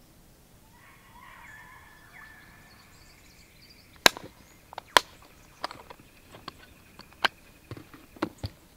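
A run of sharp, irregular knocks or snaps, about ten over the last five seconds, the first and second the loudest.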